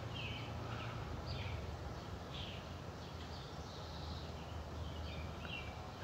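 Faint, scattered bird chirps in woodland: short high calls a few times a second apart over steady low outdoor background noise.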